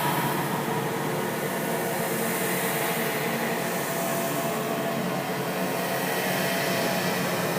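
Steady, dense droning noise with faint humming tones running through it, even in level: an eerie ambient sound effect.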